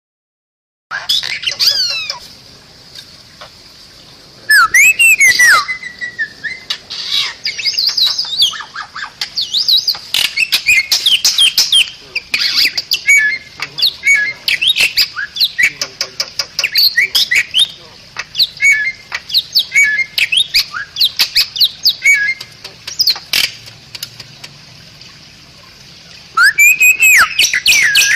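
Bali myna singing: loud, harsh squawks and rapid chattering notes mixed with quick sweeping whistles, in bursts broken by two short lulls.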